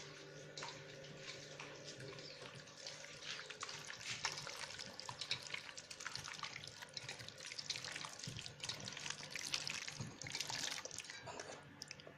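Wet, irregular squelching and crackling of chicken and masala marinade being mixed, busier and louder in the second half.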